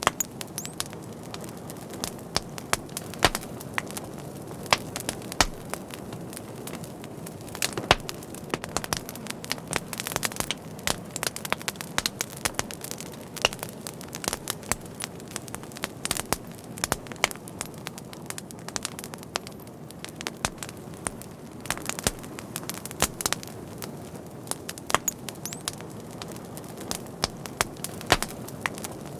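Wood fire crackling: a steady low hiss of burning with frequent irregular sharp pops and snaps.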